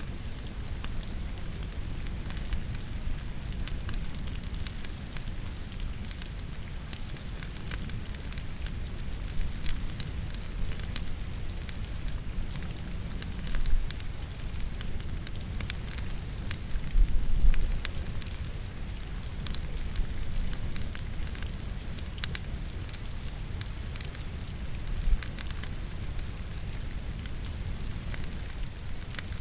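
Wood logs burning in a fireplace, crackling with frequent sharp pops over a steady low rumble, mixed with a steady hiss of rain. A few louder pops and snaps stand out, the strongest about halfway through.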